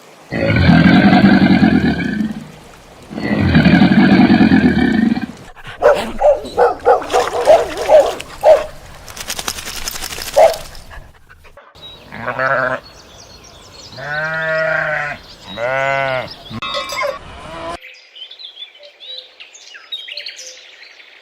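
A sequence of animal calls: two long low calls, then a run of short pulsed notes and a hiss-like burst, then three short wavering calls, and faint high chirping near the end.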